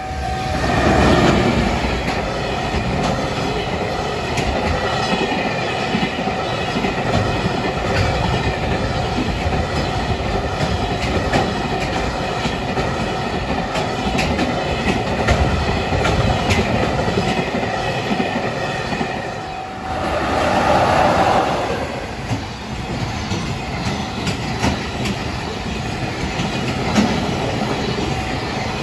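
A long freight train passes at speed over a level crossing, its wheels clattering steadily over the rail joints. The noise swells about a second in and again around twenty seconds in. A steady electronic tone, consistent with the crossing's warning bell, rings under it.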